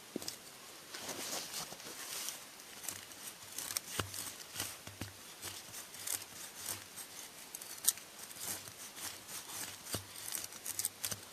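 Dry wood chips and splinters being handled and laid onto a pile of dry twigs and pine needles: light rustling with many small irregular clicks, one sharper click about eight seconds in.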